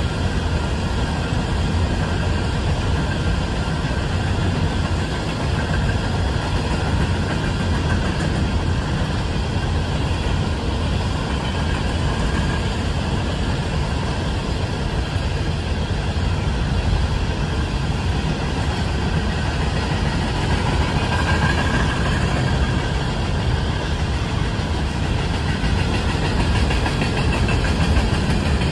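Freight train of coal hopper cars rolling past: a steady deep rumble of steel wheels on the rails, with a faint ringing from the wheels and rails above it, growing a little louder near the end.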